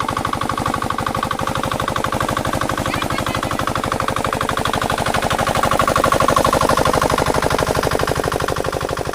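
Diesel water pump engine running steadily with a fast, even exhaust beat, getting a little louder about six seconds in.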